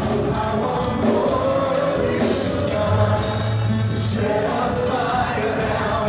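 Gospel-style music with a group of voices singing held notes over the band.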